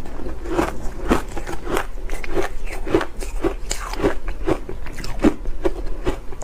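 A person biting and chewing ice close to the microphone: a steady run of crisp crunches, about two a second.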